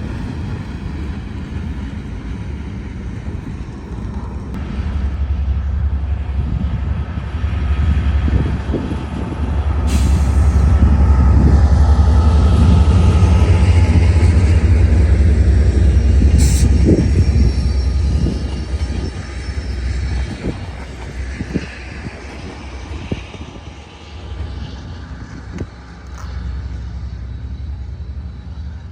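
A train passing: a deep engine rumble builds, is loudest mid-way, then fades away, with clicks of wheels over the rails and a falling tone as it goes by.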